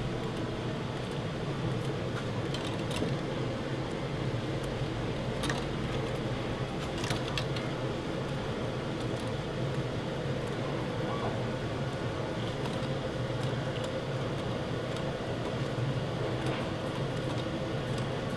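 A steady low hum, with a few faint, sharp clicks and rattles of plastic Lego pieces being handled, mostly a third of the way in.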